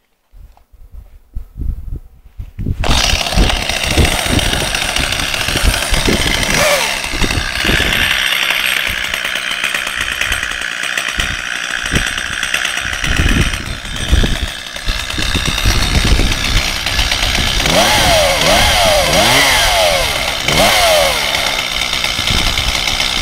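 Stihl 023 L two-stroke chainsaw running loudly, starting suddenly about three seconds in after a few low knocks. Near the end its engine speed rises and falls several times.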